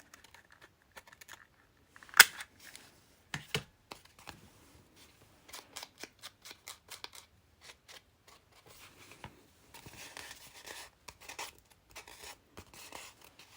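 Scissors cutting paper in a run of short snips, with paper being handled between them; a sharp click stands out about two seconds in, another about a second later.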